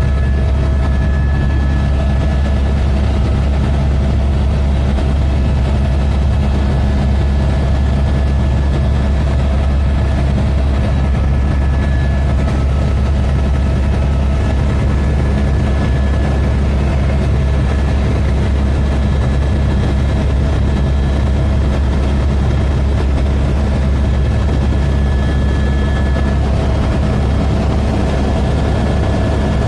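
Helicopter running steadily: a constant low drone with a few steady higher-pitched tones over it, unchanging throughout.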